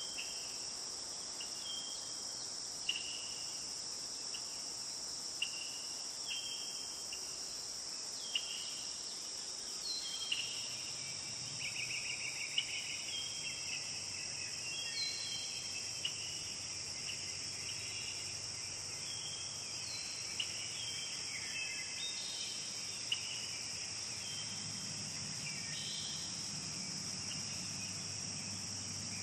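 Steady high-pitched insect chorus, like crickets, with short chirping calls over it every couple of seconds that grow busier and overlap from about ten seconds in.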